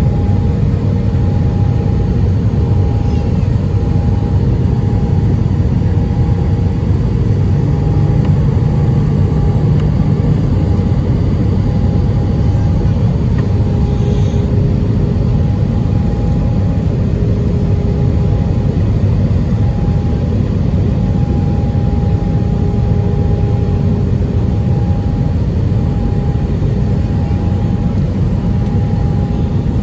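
Airbus A320 cabin noise: a steady, loud rumble of the engines and airflow, with two steady tones running through it.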